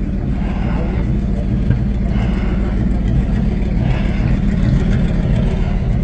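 Tow truck's engine running steadily at idle, a constant low sound with no change in pitch.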